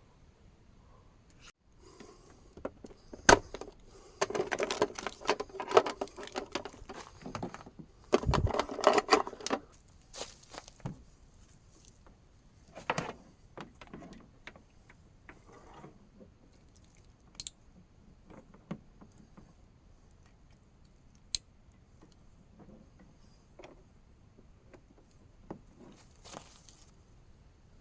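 Small hard objects handled at close range in a small space: a few seconds of jangly clattering and rustling with sharp clicks, then scattered single clicks and taps.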